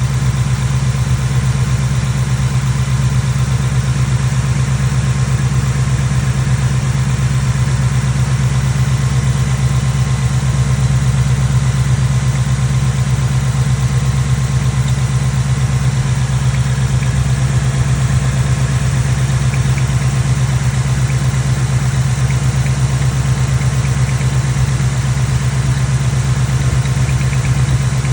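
2024 Mustang GT's 5.0-litre V8 idling steadily after a cold start, with a faint high chirp riding over the idle.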